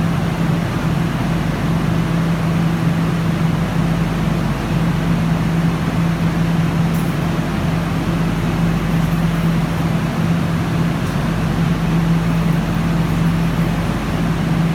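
Guangzhou Metro Line 1 train running: a steady, even noise with a constant low hum.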